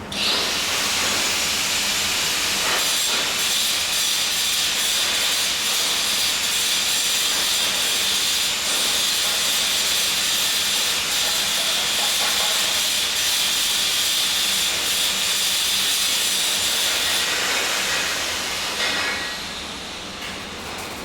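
Steady hiss of a welding arc. It starts abruptly and fades away a few seconds before the end.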